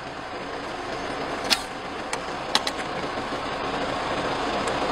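Car engine idling: a steady, even noise, with a few short sharp clicks and knocks over it.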